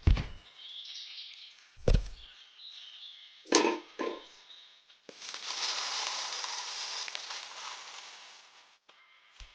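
Four sharp knocks in the first four seconds, then about four seconds of steady rushing noise that fades away, with a small click near the end.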